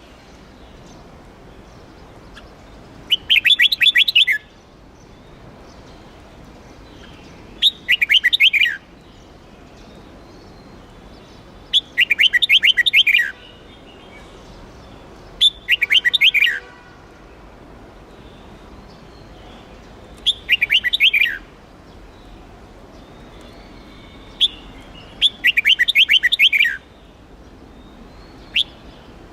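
Red-whiskered bulbul singing: short, loud whistled phrases of about a second, each ending in falling notes, repeated about every four seconds over a faint steady hiss. This is the drawn-out Huế-style bulbul song used to train competition song birds.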